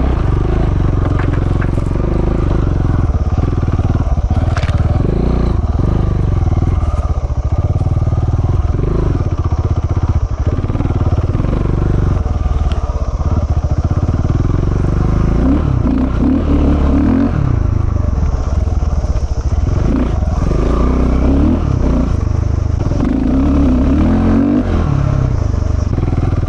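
KTM 690 Enduro's single-cylinder engine running under load on a steep dirt climb, rising in pitch with a few brief revs in the second half.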